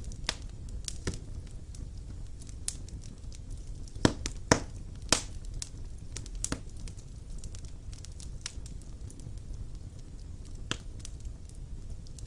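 Wood fire burning in a stone fireplace: irregular crackles and pops over a low steady rumble of flames, with a few louder snaps about four to five seconds in.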